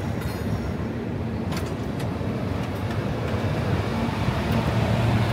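The Ghan's stainless-steel passenger carriages rolling past as the train pulls out: a steady rumble of wheels on the rails, with a few faint high clicks.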